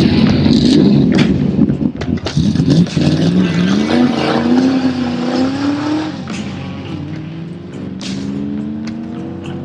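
A car engine accelerating hard, its pitch climbing in two long sweeps through the gears, with scattered sharp clicks.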